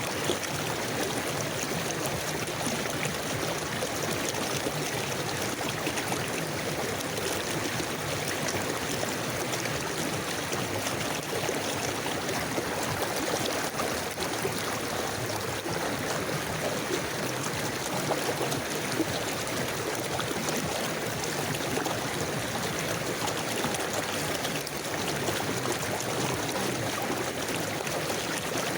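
River water flowing over stones in a steady stream, with a constant rush and fine babbling.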